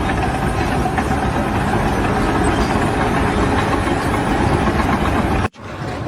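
Heavy engine running steadily, with the sound breaking off suddenly about five and a half seconds in.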